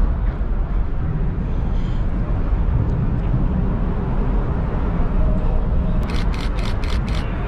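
Camera shutter firing a rapid burst of about six clicks near the end, over a steady low outdoor rumble.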